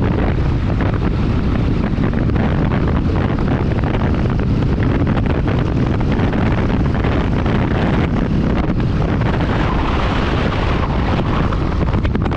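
Wind rushing over the microphone together with the road noise of a moving car, loud and steady, with a heavy low rumble; it drops away suddenly at the very end.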